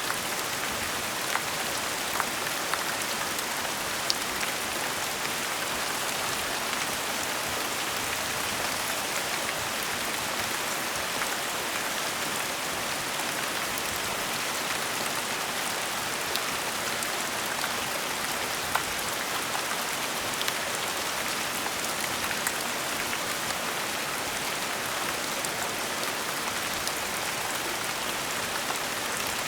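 Steady gentle rain falling, an even hiss with scattered individual drops ticking close by.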